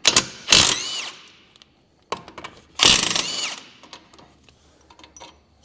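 Power tool spinning a 17 mm socket on the brake caliper bolts: two short runs, about two seconds apart, each winding down in pitch as it stops.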